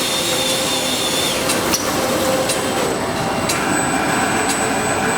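Factory machinery running: a steady loud noise with thin high whines and irregular sharp clicks. One whine stops about a second and a half in.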